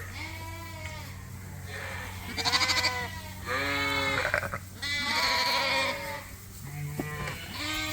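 Sheep bleating: several wavering calls in a row, some overlapping.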